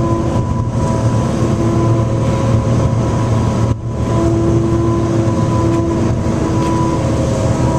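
Steady drone of a passenger ferry under way: a low engine hum with several held steady tones over a constant rushing noise, briefly dipping nearly four seconds in.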